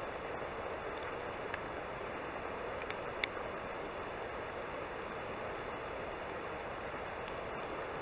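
Wood campfire burning: a steady rushing hiss with scattered faint crackles and one sharper pop about three seconds in.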